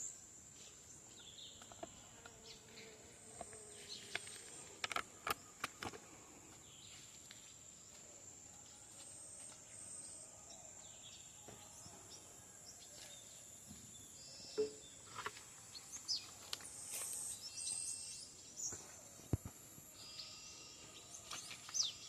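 Quiet rural outdoor ambience: a steady, high-pitched insect drone throughout, with scattered bird chirps and a few sharp clicks or snaps.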